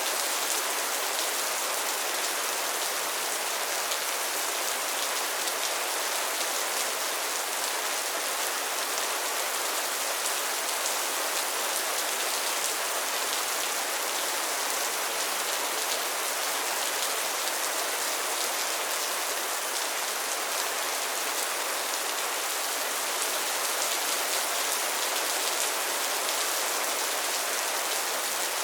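Steady rain falling on a pond and its lily pads, a dense even patter of many small drops hitting water and leaves.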